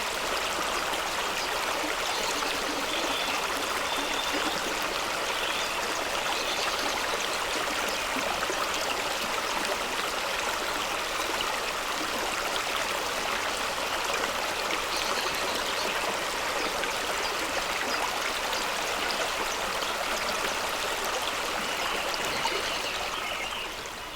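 Fast-flowing stream rushing over rocks: a steady rush of water that fades down near the end.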